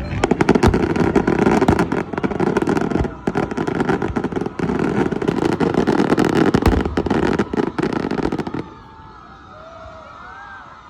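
Aerial fireworks bursting in a dense barrage: rapid bangs over continuous crackling. About eight and a half seconds in, it drops off sharply to a much quieter background with faint wavering tones.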